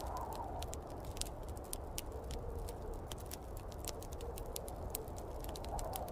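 Wood fire crackling in a fireplace, with frequent irregular sharp pops and snaps over a steady low rumble. A wavering, howl-like mid-pitched sound from the snowstorm wind rises near the start and again near the end.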